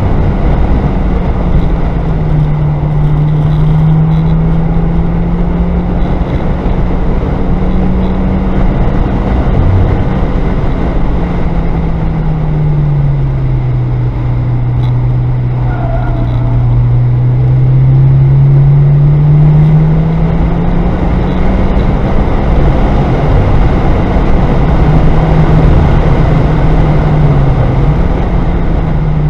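Car engine heard from inside the cabin while driven at pace on a race track, its drone slowly sinking in pitch and climbing again as the car slows for corners and accelerates out, lowest about halfway through. Steady road and wind noise runs underneath.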